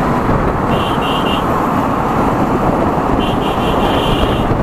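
Wind rushing over the microphone with the running noise of a Yamaha R15 V3's single-cylinder engine on the move. Short high beeps, like a horn, sound in quick runs: three about a second in, and another series from about three to four and a half seconds in.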